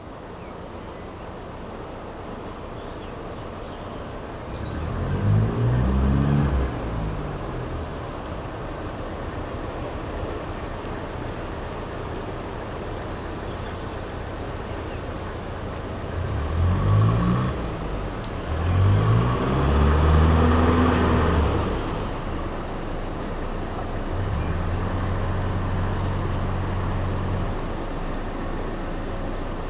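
A low engine hum, its pitch rising and falling a few times: around five seconds in and again from about sixteen to twenty-two seconds, then held steady for a few seconds near the end.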